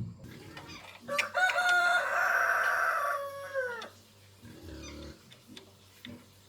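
A rooster crowing once, a single call of about three seconds that holds its pitch and then falls away at the end, after a short knock at the very start.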